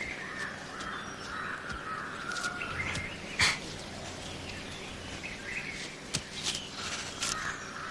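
Forest ambience with a steady faint hiss and a few brief bird calls, the clearest about three and a half seconds in.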